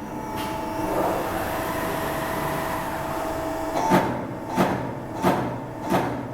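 Boschert Compact 750 CNC/Z hydraulic turret punching machine: a single punch stroke, then about three seconds of a steady whine as the machine runs between hits, then punch strokes resume at a regular pace of about three every two seconds.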